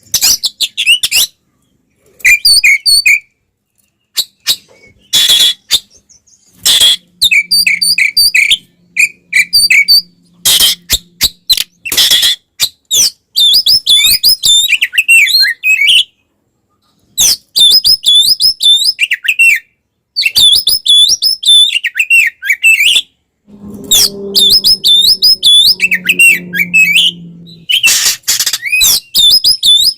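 Oriental magpie-robin (kacer) singing loudly in phrases of rapid, repeated whistles broken by harsh scratchy notes, with short pauses between phrases. This is the aggressive, fight-mode song used to provoke other magpie-robins.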